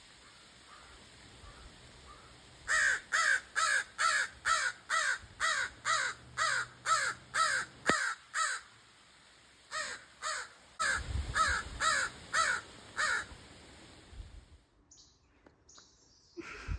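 Crow cawing in rapid, even series of short calls, about three a second. One long run stops about eight seconds in, and a shorter run follows after a brief pause.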